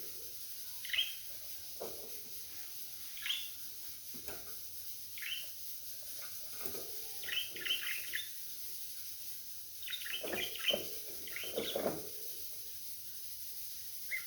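Budgerigars chirping in short, scattered calls, with quick runs of chirps in the middle and again near the end.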